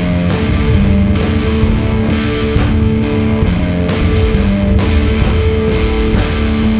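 Live blues-rock band playing an instrumental stretch with no singing: distorted electric guitar holding chords over steady drum and cymbal hits.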